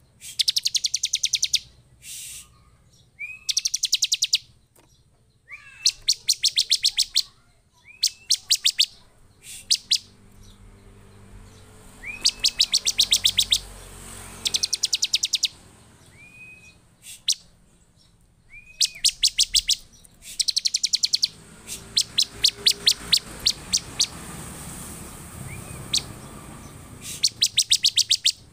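Bar-winged prinia (ciblek) in excited, agitated song: about a dozen bursts of fast, sharp, high chattering, each roughly a second long and many opening with a short rising note, with short pauses between. This is the worked-up calling used as a lure to make other prinias sing.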